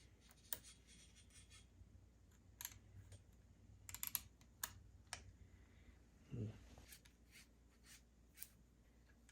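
Faint scattered light clicks and taps, with a short low thump about six and a half seconds in.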